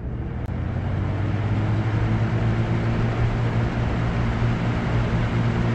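Lasko WeatherShield 20-inch box fan starting up on medium speed: the motor hum and rush of air build over the first two seconds, then run steady.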